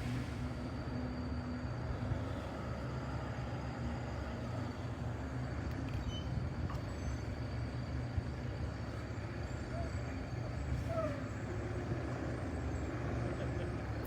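Semi truck hauling a long bridge beam, its diesel engine running low and steady with road noise as it approaches and passes.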